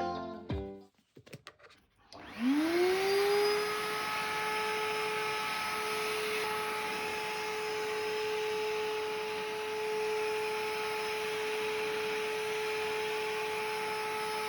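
Commercial wet/dry vacuum cleaner (Minato MPV-101) switched on after a few clicks: about two seconds in its motor whine rises quickly, then it runs steadily with an even hiss of air.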